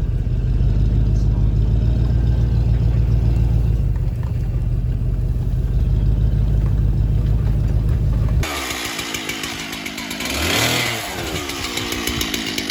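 Steady, low engine rumble of a running vehicle, cut off suddenly about eight seconds in. It gives way to a small engine buzzing, its pitch rising and then falling briefly near the end.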